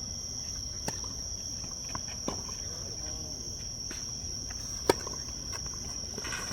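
Steady, high-pitched insect chirring throughout, with a few sharp knocks of a tennis ball being struck, the loudest about five seconds in.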